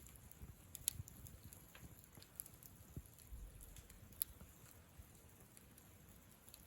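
Campfire crackling softly: a few scattered sharp pops of burning wood, the loudest about a second in and about four seconds in, over a faint low rumble of the flames.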